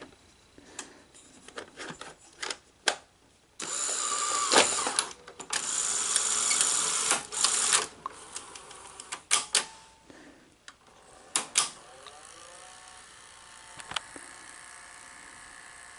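A Betamax videocassette being handled and loaded into a Sony SL-HFR30 Betamax deck: a series of clicks and knocks with several longer scraping, rustling stretches. In the second half a faint, steady running sound from the deck's mechanism sets in.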